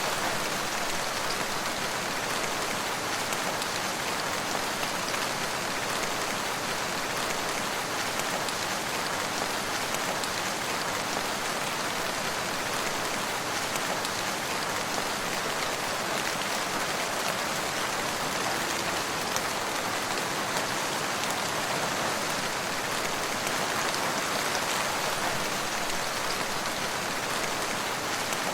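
Steady rain falling and pattering on surfaces, a constant even hiss with many small drop ticks.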